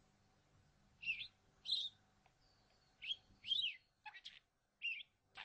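Budgerigar chirping: short, quick chirps with fast up-and-down sweeps in pitch, about two a second, starting about a second in.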